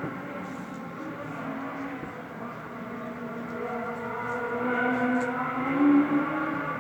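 Peugeot 306 Maxi rally car's four-cylinder engine revving hard, its pitch rising and falling through the gears and echoing. It grows louder over the last few seconds.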